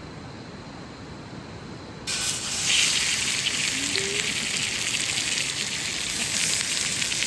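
Quiet outdoor ambience, then about two seconds in a cut to food sizzling and crackling in a hot pan, a steady hiss full of fine pops.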